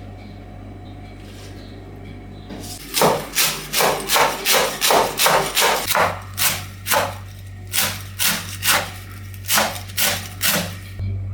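Knife chopping on a wooden cutting board: a run of sharp, regular knocks, about two to three a second, starting about three seconds in.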